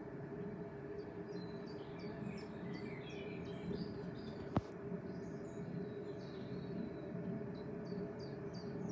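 Small birds chirping in quick repeated short calls over a steady low hum, with a single sharp click about halfway through.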